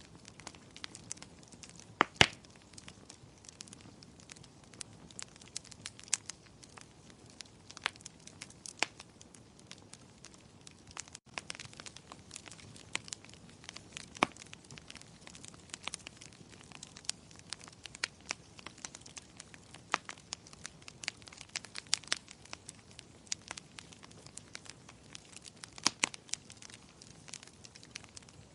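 Wood fire in a fireplace crackling, with irregular sharp pops over a faint steady hiss; the loudest pops come about two seconds in and again near the end.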